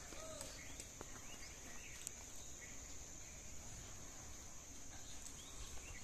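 Faint outdoor ambience: scattered short bird chirps over a steady high-pitched hiss, with a few sharp clicks.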